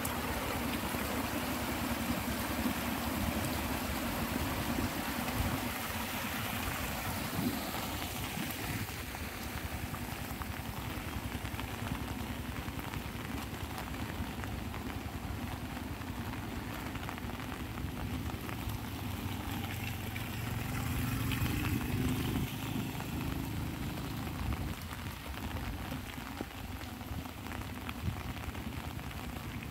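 Light rain pattering on an umbrella overhead: a dense, steady patter of drops. A low rumble swells and fades about two-thirds of the way through.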